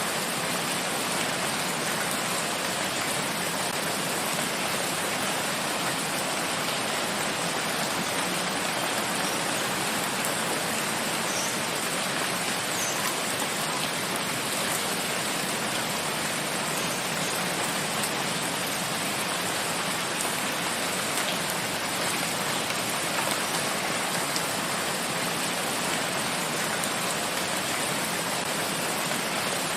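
Steady rain falling in a forest, a dense, even hiss of drops with a few faint individual patters.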